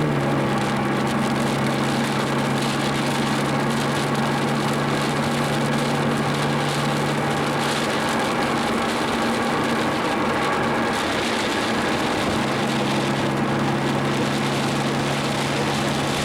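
Car engine running steadily under road noise, its low engine tone fading out for a few seconds around the middle and then coming back.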